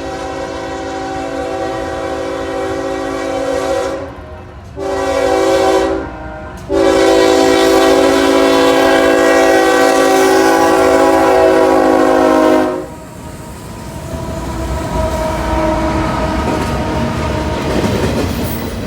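Norfolk Southern freight locomotive's multi-chime air horn sounding: a long blast, a short one, then a long one of about six seconds, the close of a grade-crossing signal. When the horn stops, the steady rumble and wheel clatter of the train passing close by take over.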